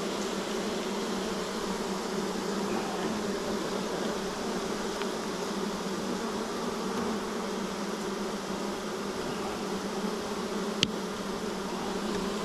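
Many honeybees buzzing around an open hive, a steady, unbroken drone. A single sharp click sounds near the end.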